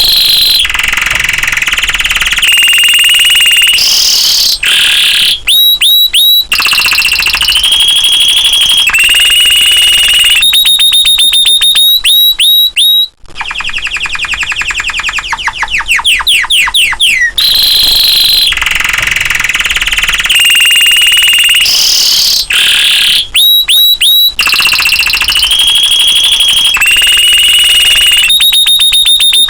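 Domestic canary singing a loud, continuous song. Long rolling trills held on one pitch alternate with fast runs of repeated notes that sweep downward, with a brief break about halfway through.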